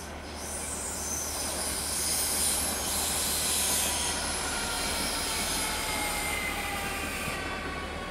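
ÖBB Cityjet electric multiple unit arriving, its running noise swelling and then easing off. Thin, high wheel squeals ride over it, loudest a couple of seconds in, and slide a little lower towards the end.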